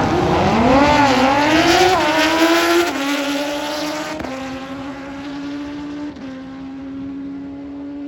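Drag racing motorcycle engine at full throttle off the line. Its pitch climbs and wavers for about three seconds, then steps down a few times and holds steadier as it fades away down the strip.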